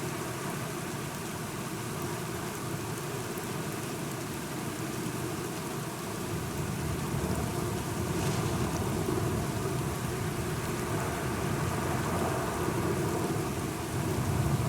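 Steady rain, with a low rumble of thunder swelling in about halfway through.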